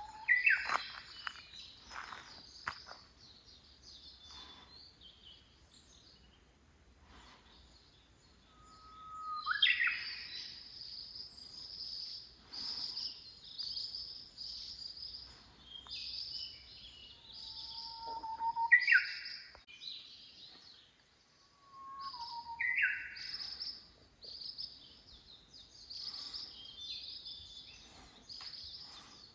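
Wild birds calling and singing: a dense run of short, high chirps, with a few lower, louder calls every few seconds.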